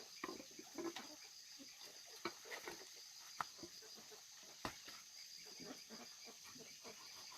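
Scattered faint clicks and knocks, two of them sharper about three and a half and four and a half seconds in, over a steady high insect chirring.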